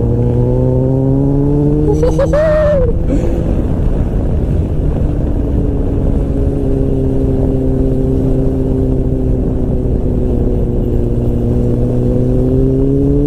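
Motorcycle engine running at cruising speed under wind rush. The note climbs a little in the first couple of seconds, holds steady, then rises near the end as the bike accelerates.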